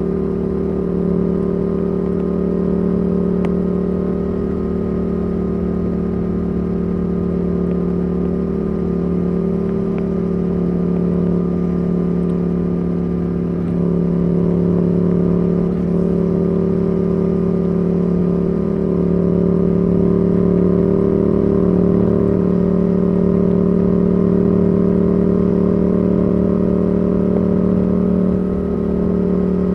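Yamaha R7's CP2 parallel-twin engine through a Yoshimura R77 exhaust, running at steady cruising revs under way. It picks up a little in the middle and eases off briefly near the end.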